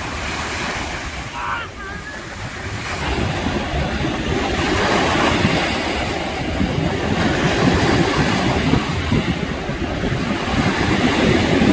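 Small waves washing on a sandy lake shore, with wind buffeting the microphone; the noise swells a few seconds in.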